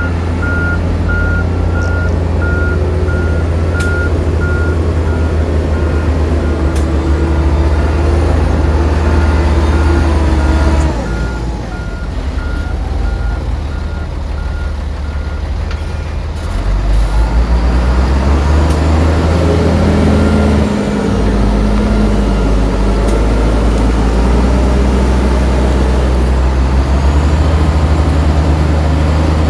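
Heavy diesel engine of an earthmoving machine running under load, with a reversing alarm beeping rapidly for the first several seconds. The engine eases off about eleven seconds in and revs up again a few seconds later.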